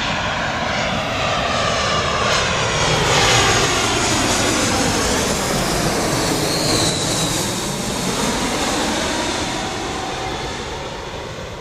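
Jet airliner on final approach passing close by, its engine noise loudest about three to four seconds in and then slowly fading, with a sweeping, phasing sound as it goes past.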